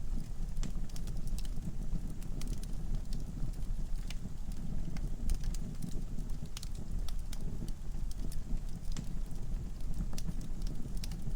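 Wood fire crackling in a fireplace: irregular sharp pops and snaps over the low, steady rumble of the flames.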